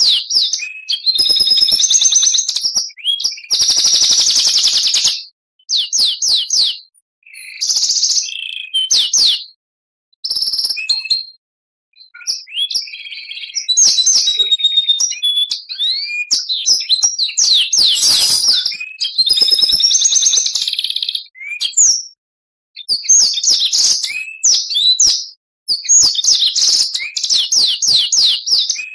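Oriental magpie-robin (kacer) singing loudly in varied phrases of clear whistles and rapid chattering trills, broken by several short silent gaps.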